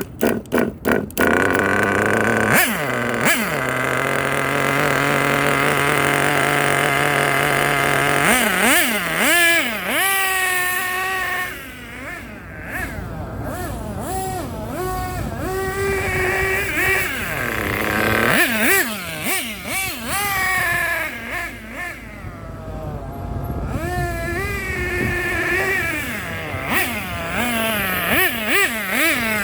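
Nitro RC car engine (a Hyper race engine) firing in rapid pops, catching about a second in, then running with a high-pitched buzz. It is revved up and down again and again, fading briefly twice.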